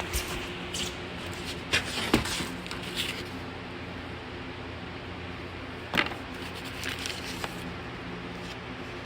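1999 Bahama Classic Series 52-inch ceiling fan motor running with a steady low hum, broken by several sharp clicks and knocks, most of them in the first three seconds.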